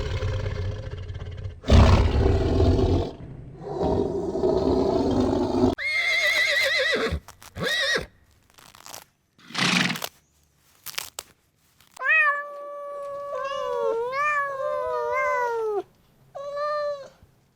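A string of different animal calls, one after another: rough, noisy calls for the first few seconds, then short wavering cries, and from about twelve seconds in, long calls that glide up and down in pitch, with one short call near the end.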